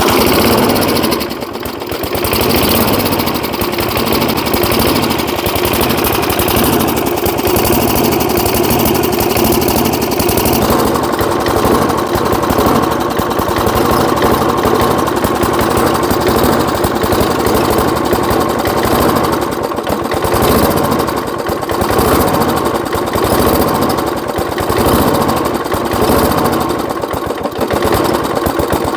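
A 1979 Rocket push mower's 3.5 hp Briggs & Stratton engine running, not yet smooth, with Marvel Mystery Oil added; the owner wonders whether a sticky valve is the cause.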